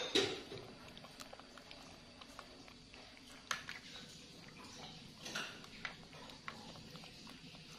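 Plastic spoon scraping and tapping in a plastic yogurt cup: a few faint, scattered clicks over quiet room noise.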